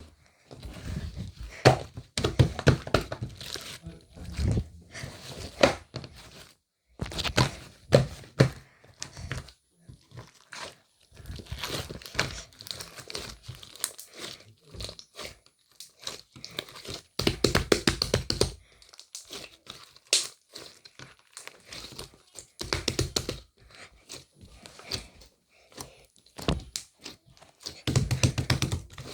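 Close-up handling sounds: irregular crinkling and rustling with soft thunks and clicks, coming in short clusters separated by brief pauses.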